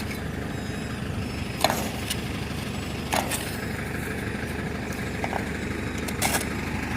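A motor running steadily, with a few short sharp knocks scattered through.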